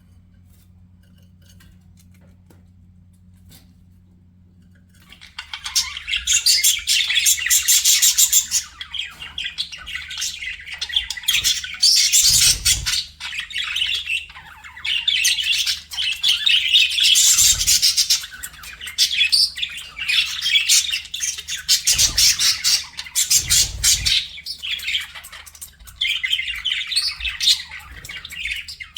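Budgerigars chattering and warbling in a dense run of rapid high chirps and squawks, starting about five seconds in after a faint low steady hum.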